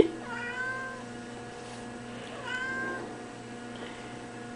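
Kitten meowing twice, two short meows about two seconds apart.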